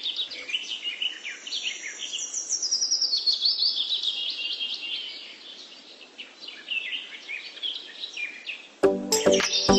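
Birds chirping and singing: a busy run of quick, high chirps and trills over a faint hiss. Music comes back in near the end.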